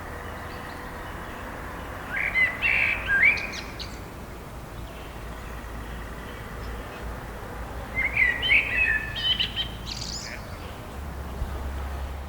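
Forest songbirds chirping: two short bursts of quick, high chirps, about two seconds in and again about eight seconds in, over a steady low background rumble.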